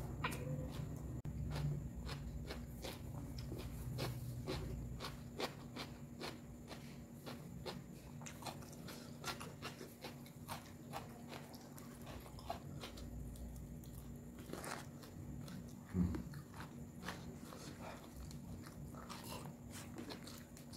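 Close-miked chewing and crunching of raw lalapan vegetables, with many short irregular crunches and mouth clicks.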